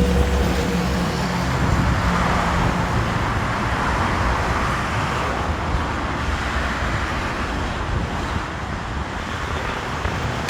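Jet engine noise from a Boeing 737-8 MAX's CFM LEAP-1B turbofans, a steady loud rush. A low hum with a few steady tones fades over the first few seconds.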